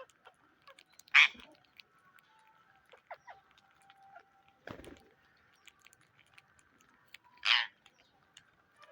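Indian ringneck parrot giving two short, loud squawks, one about a second in and one near the end, with a soft thump in between.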